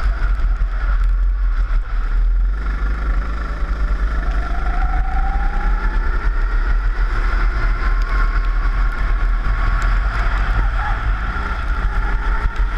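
Four-stroke rental kart engine running hard, its pitch rising and falling with the throttle through the corners, recorded on board with a heavy low rumble under it.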